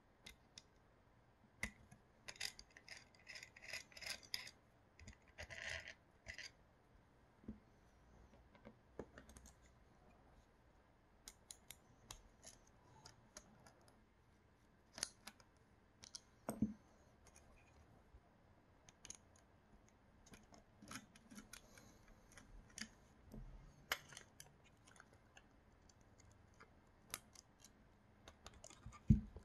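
Small tools and parts of a Creality Sprite 3D-printer extruder being handled during disassembly: scattered light clicks and taps. About two seconds in there is a quick run of rapid clicking, then a short scrape.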